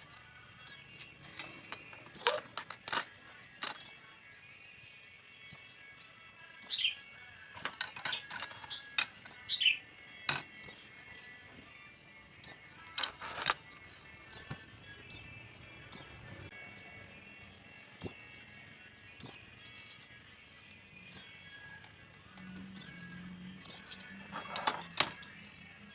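A small bird chirping over and over, short high notes that drop quickly in pitch, about one a second. A few sharp knocks or taps stand out among the chirps.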